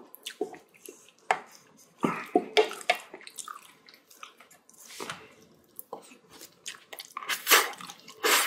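Close-miked chewing of a mouthful of bibimbap: wet mouth sounds in short, irregular bursts, slow and drawn out, with a louder stretch near the end.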